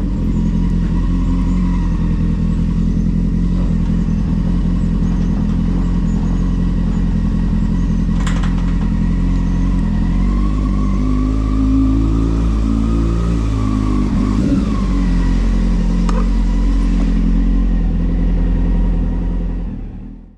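Carbureted Honda Hornet motorcycle engine running steadily, with a brief rise and fall in revs about twelve seconds in. The sound fades out at the very end.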